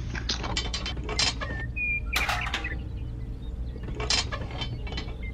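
Irregular small mechanical clicks and clinks over a steady low hum, with a short louder rattle about two seconds in.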